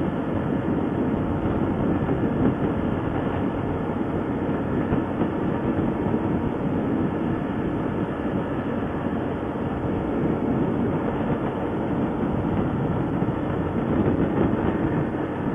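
ATV running steadily under way, its engine noise mixed with the rattle and rumble of the machine over the trail.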